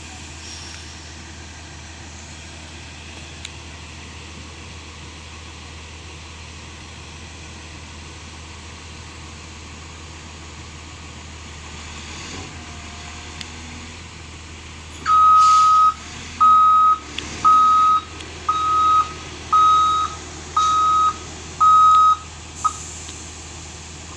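A truck's engine runs with a steady low hum. About two-thirds of the way in, a reversing alarm sounds eight loud, evenly spaced single-pitched beeps, roughly one a second, and then stops.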